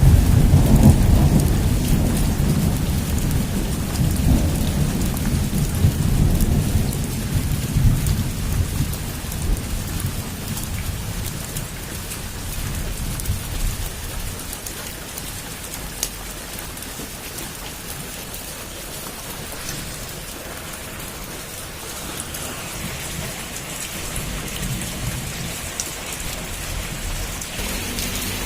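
Heavy rain pattering steadily on surfaces, with a long rumble of thunder that is loudest at the start and dies away over about ten seconds.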